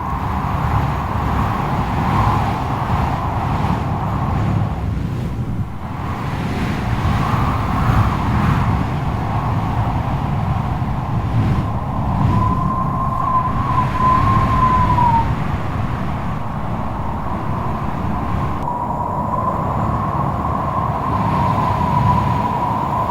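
Strong wind gusting with a low rumble and a howling whistle that wavers in pitch, coming in about halfway through and again near the end.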